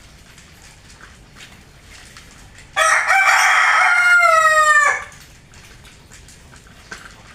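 A rooster crowing once: a loud call of about two seconds that drops in pitch at the end.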